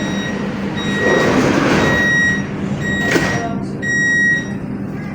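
Door-closing warning beeps of a Siemens Inspiro metro train: a high beep repeated about six times, with a rush of noise as the sliding doors move and a knock about three seconds in as they shut, over a steady low hum from the train.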